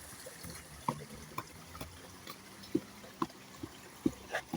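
A small trickle of water running over stones, with scattered bubbling plops.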